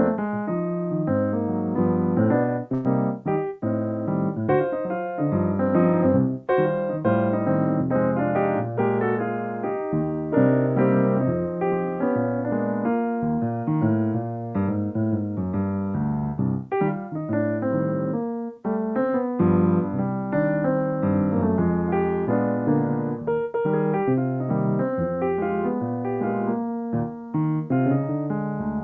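Solo piano playing, a continuous flow of notes and chords.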